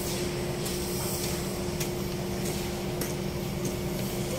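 Steady engine hum with a constant drone and an even hiss, unchanging throughout, as from a vehicle running at a steady pace.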